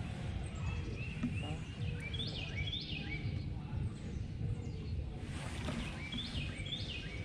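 A songbird calling: a quick series of high chirps about two seconds in and again about six seconds in, over a steady low outdoor rumble.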